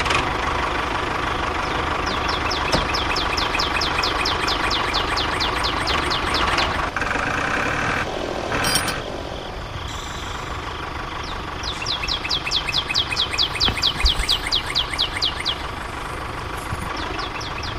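Small motor of a miniature DIY tractor running steadily, with two stretches of rapid, evenly spaced high ticking at about seven a second.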